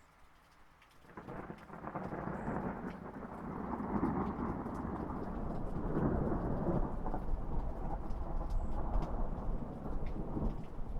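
Light rain with scattered drop ticks, then about a second in a long roll of thunder sets in, swelling over the next few seconds into a sustained low rumble.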